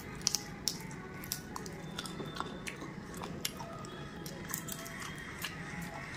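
A person biting and chewing a spicy curried chicken foot, with many sharp, separate crunches and wet mouth clicks.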